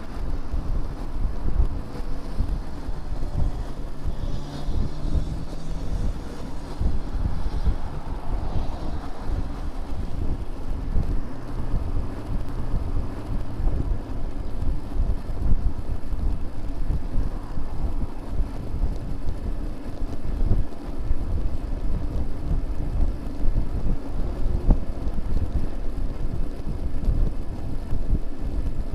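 Wind buffeting the microphone of a rear-facing bicycle camera while riding, mixed with the rumble of motor traffic on the road behind. A vehicle's engine hum rises out of the rumble about four to seven seconds in.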